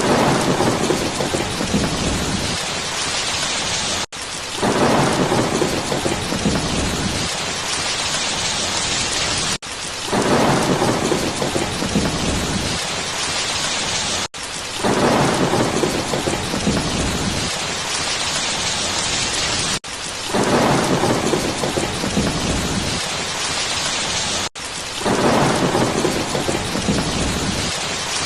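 Steady rain hiss with a low thunder rumble swelling up about every five seconds. The same pattern repeats, broken by a brief dropout between repeats, like a short recording played on a loop.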